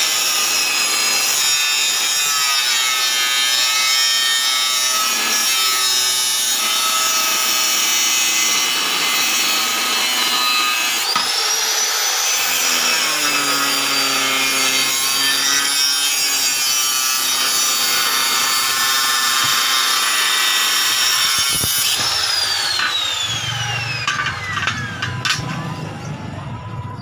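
Electric motor-driven tool running under load, grinding or cutting with a rasping noise, its pitch sagging and recovering as it bites. About 22 seconds in it is switched off and spins down with a falling whine.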